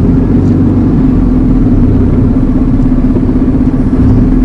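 Steady drone of an Iveco Eurocargo lorry's diesel engine and road noise heard from inside the cab while driving, with a constant low hum.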